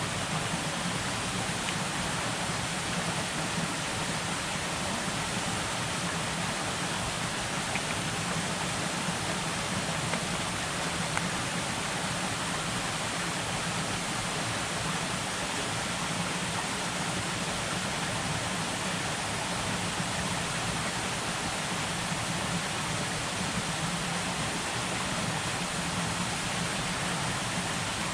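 Heavy rain falling steadily: an even rushing hiss.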